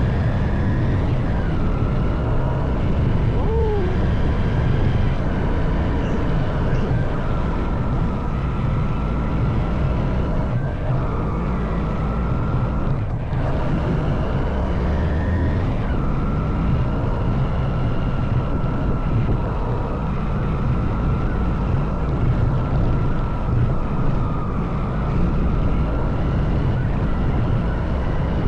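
Honda CB190R's single-cylinder engine running steadily under way, heard from the rider's position, with a constant low rumble. Its pitch steps down briefly about a second in and again about halfway through.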